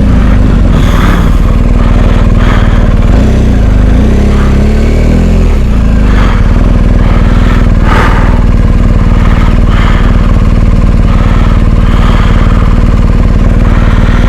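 Adventure motorcycle's twin-cylinder engine ticking over, its pitch wavering up and down with small throttle blips for the first few seconds, then settling to a steady idle. A single knock about eight seconds in, as the bike is manoeuvred to turn around on rough ground.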